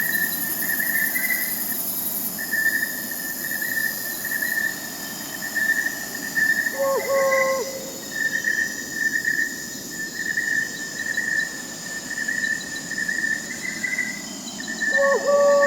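Crickets chirping in a steady, pulsing chorus over a high insect hiss, with an owl hooting twice: once about seven seconds in and again near the end, each hoot a short held note that drops off at the end.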